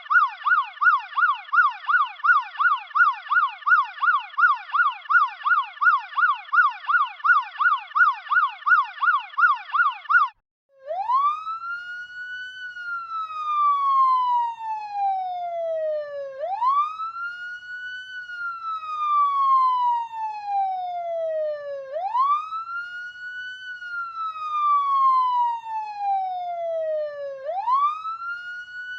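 American police car siren in a fast yelp, its tone sweeping rapidly up and down about three times a second. Just over ten seconds in it breaks off briefly and switches to a slow wail that rises quickly and falls away slowly, repeating about every five and a half seconds.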